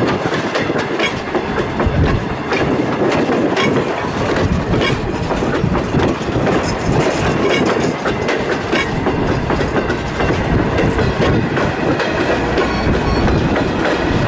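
A train's cars rolling past, wheels clicking over the rail joints in a steady clickety-clack.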